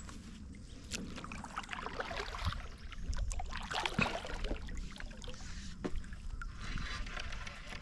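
Light water splashing and trickling around a kayak, with scattered small knocks and clicks.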